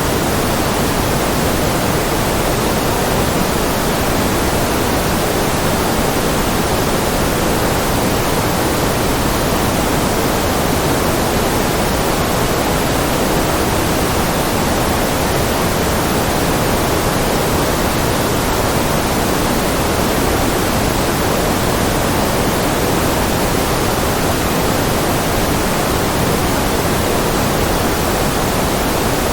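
Steady synthetic noise, a white-noise track with its weight in the lower and middle range rather than a bright hiss, unchanging throughout.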